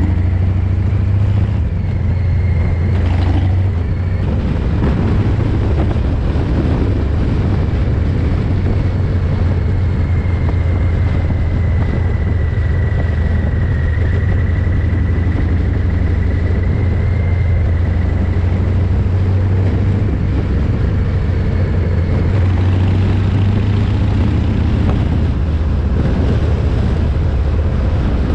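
Harley-Davidson Fat Boy 114's V-twin engine, through a Vance & Hines exhaust, running steadily with no marked revving. The recorder's gain was set far too high, so the exhaust note is overdriven and smeared.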